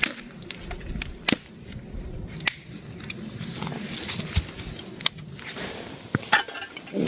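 Rustling and handling noises with several sharp clicks and snaps at irregular intervals, a second or more apart.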